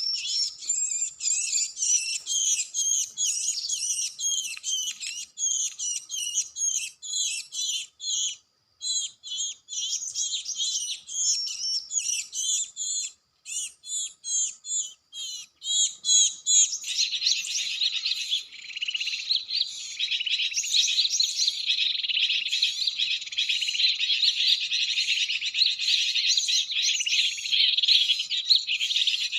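Small songbirds chirping in short, quick repeated phrases, turning into dense, unbroken twittering a little over halfway through.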